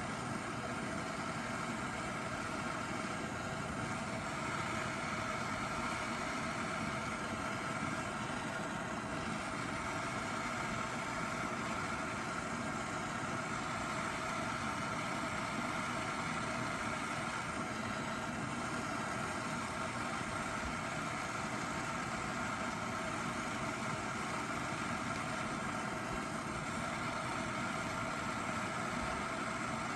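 Gas torch flame burning with a steady, even hiss, heating a seized strut bolt to free it.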